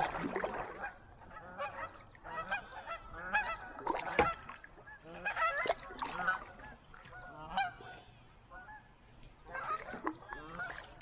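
Waterfowl calling: many short honking calls in scattered bursts, overlapping like a flock. A single sharp knock about four seconds in.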